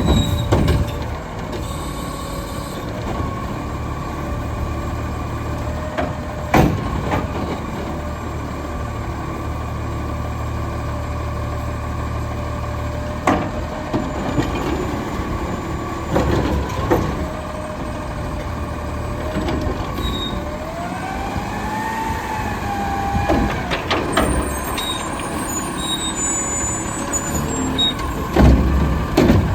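Diesel Autocar garbage truck running steadily, with air-brake hisses and several sharp bangs spread through it. Near the middle a pitch rises and falls once.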